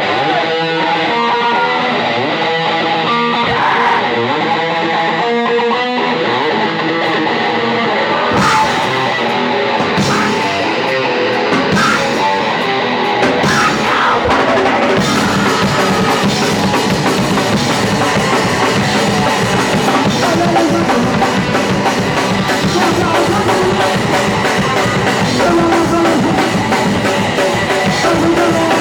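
A punk rock band playing live on electric guitar, bass and drum kit. A picked guitar riff opens alone, drum and cymbal hits come in about eight seconds in, and the full band is playing from about fifteen seconds.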